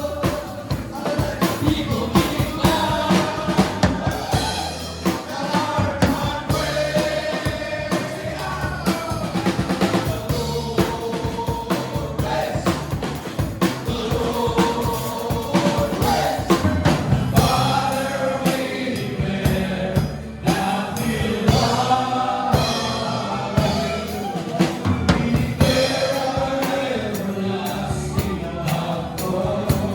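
A group of voices singing a worship song together, backed by a band with a drum kit keeping a steady beat.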